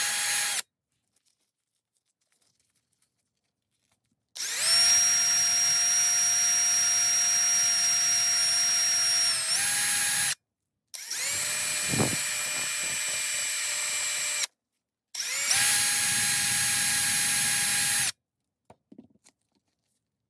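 A small electric drill-type power tool, used to clean rust off a tool, runs in four bursts with a steady high whine. Each burst spins up quickly to speed and cuts off when released. The first burst stops just after the start, followed by runs of about six, three and a half and three seconds with short pauses between. A few faint clicks come near the end.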